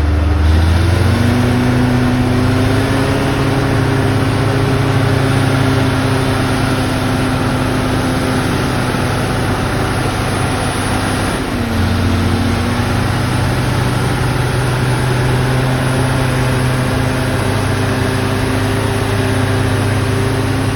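Zoomlion bulldozer's diesel engine running steadily, its pitch rising about half a second in, dropping briefly near the middle and picking up again.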